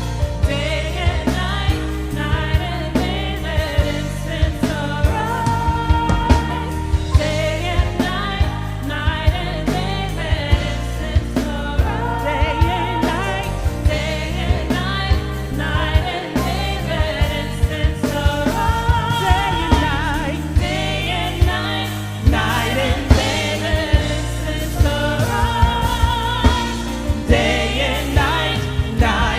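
Gospel praise-and-worship music: singers with a choir-like backing, held notes with vibrato, over a band with bass and a steady drum beat.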